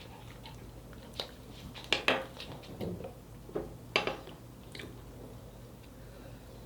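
Close-up eating sounds of chewing, with a scatter of short sharp clicks and taps between about one and five seconds in, then it goes quieter.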